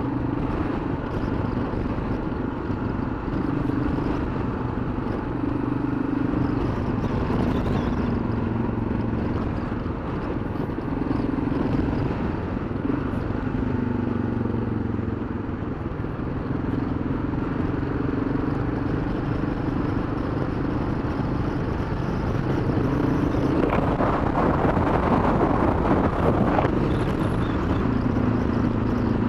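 Motorcycle engine running at road speed, its pitch stepping up and down with the throttle, under a steady rush of wind on the microphone; the wind noise swells about three-quarters of the way through.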